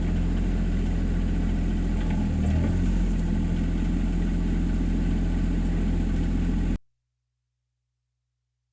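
The three-cylinder Yanmar diesel engine of an RK24 subcompact tractor running steadily at a constant speed. The sound cuts off abruptly to complete silence about seven seconds in.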